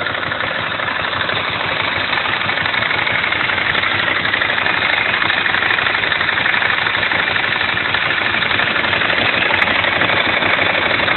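Ducati Streetfighter S's 1099 cc L-twin engine idling steadily, getting slightly louder over the first couple of seconds.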